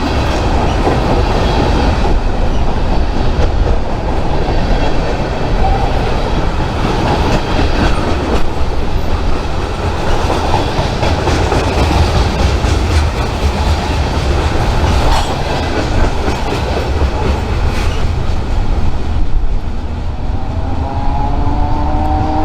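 Train passing close by, its wheels clattering steadily over the rail joints. Near the end a rising whine comes in.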